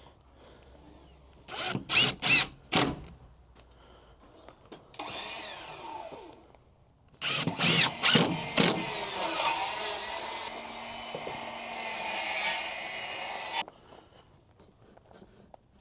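Power drill driving screws into wood: several short trigger bursts with the motor spinning up and down, then one longer run of about five seconds that stops abruptly.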